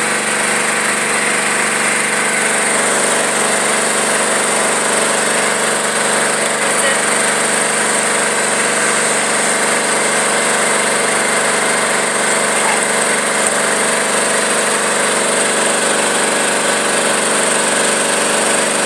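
Tractor engine running steadily at an even, unchanging speed, like idling.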